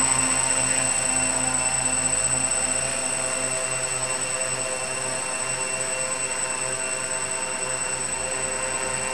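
Multirotor drone with four inverted Altigator A3540 brushless motors and 14x8 propellers, buzzing steadily at hover, with a steady high-pitched whine above it. It fades slightly over the seconds as it holds position.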